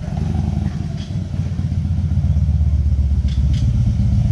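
Motorcycle engine running steadily at low revs with a fast, even pulse, a little louder from about two seconds in.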